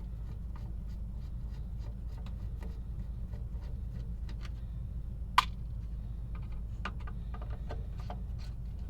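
Scattered light clicks and taps over a steady low hum, with one sharp, louder click about five and a half seconds in.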